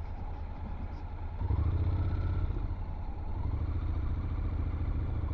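Motorcycle engine running, louder about a second and a half in as it pulls away with a rising whine, then settling into a steady drone.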